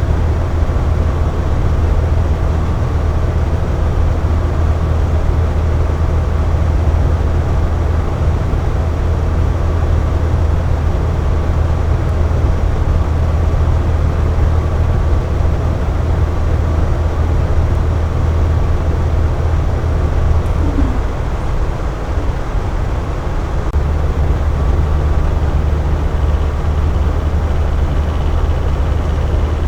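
Air conditioner running steadily: a low hum under an even rush of airflow noise. The hum drops back for a couple of seconds about two-thirds of the way through, then returns.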